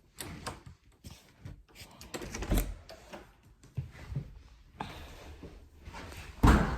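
Indoor handling noises: scattered clicks and knocks, with a louder knock about two and a half seconds in and a heavy thump near the end.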